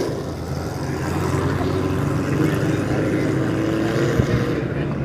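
A vehicle engine running steadily at a constant speed, a low even drone.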